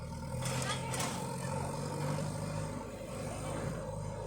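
Tractor engine running steadily, with brief rattling clatter about half a second to a second in.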